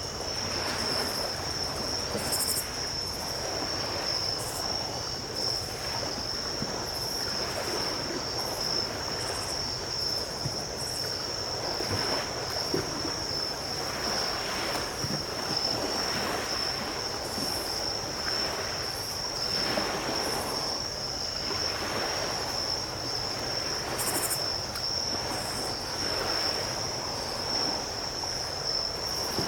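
Small ocean waves washing onto the beach every few seconds, under a steady, high-pitched chorus of night insects such as crickets.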